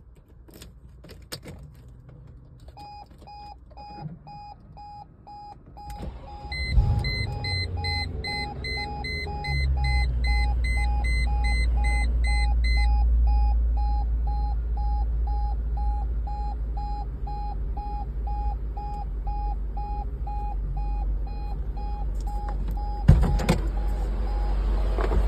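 Mercedes-Benz R129 SL 500's 5.0-litre V8 cold-starting: it cranks briefly and catches about seven seconds in, then settles into a steady, deep fast idle. A dashboard warning chime beeps about twice a second through most of it, joined for several seconds after the start by a second, higher beep. A single sharp knock comes near the end.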